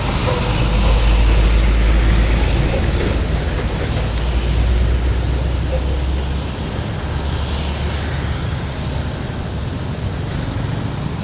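Heavy truck driving past on a road: a deep engine rumble with tyre noise, loudest in the first half and easing off after about six seconds. A thin high whistle drifts down and then back up in pitch over it.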